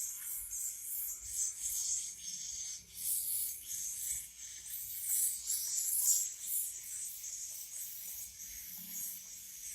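Swiftlet chicks chittering in high, raspy calls that come in uneven bursts.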